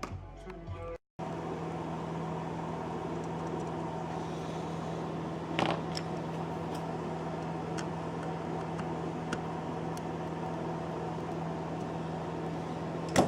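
Steady electrical hum with a hiss behind it, after the tail of some music fades in the first second. There is a soft click about five and a half seconds in and another near the end.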